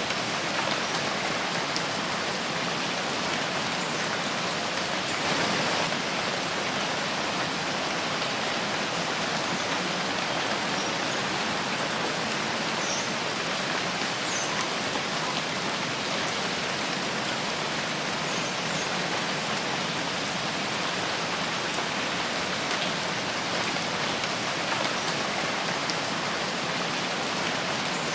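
Steady rain falling in a forest, a dense even hiss of drops on leaves and ground with no letup.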